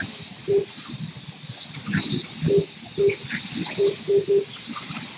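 Short electronic beeps, all at one pitch, repeating at uneven intervals, typical of a slot car lap counter registering cars as they cross the line. Under them is the steady high whirr of slot cars running on the track.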